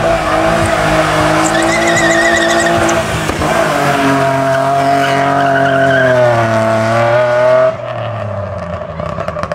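A tuned car's engine held at high revs while its tyres squeal. The revs sag and pick up again before the engine note drops away suddenly near the end.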